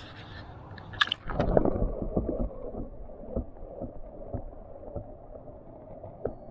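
A sharp click, then pool water sloshing and gurgling. It turns muffled and low after a second or so.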